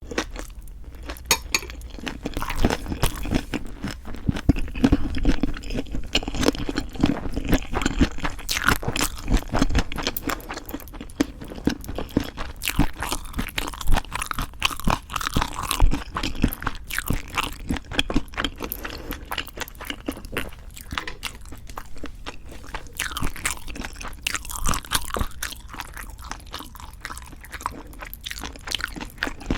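Close-miked eating sounds: steady, irregular crunching and chewing of leaf-wrapped raw fish bibimbap and boneless chicken feet, full of small crisp crackles and clicks.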